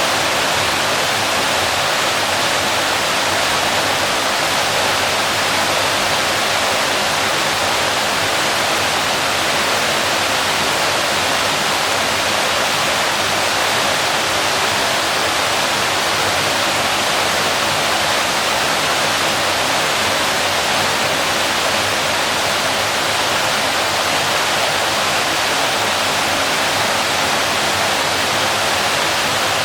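Waterfall: water falling and splashing in a steady, unbroken rush, strongest in the mid and high range with little low rumble.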